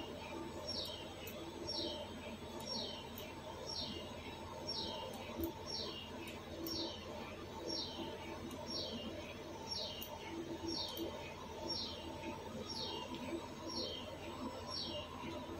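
A bird chirping over and over, each chirp a short falling note, one or two a second at slightly uneven gaps, over a steady low hum.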